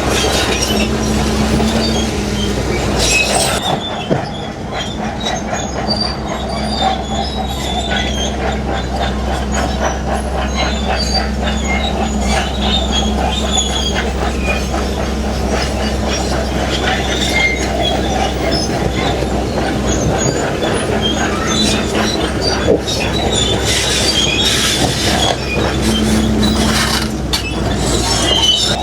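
Heavy crawler bulldozer working: a steady diesel engine drone with its steel tracks squealing and clanking, the engine easing briefly about four seconds in.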